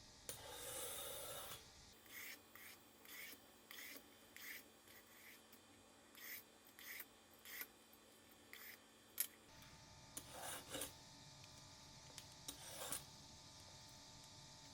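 A series of short scraping or rubbing strokes, roughly one or two a second, after a longer rough scrape at the start.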